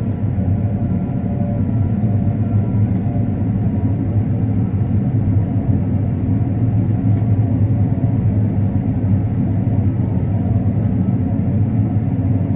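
Combine harvester running steadily while cutting corn: a constant low machinery hum with faint steady tones above it, unchanging throughout.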